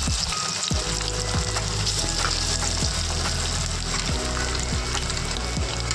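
Batter-coated marinated chicken pieces sizzling steadily in a pan of hot oil as they fry, with background music.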